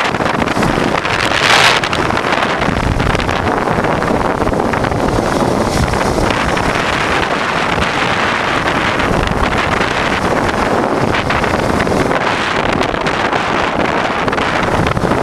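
Wind rushing over the microphone of a moving 1988 Honda Transalp motorcycle, with a short louder gust about one and a half seconds in.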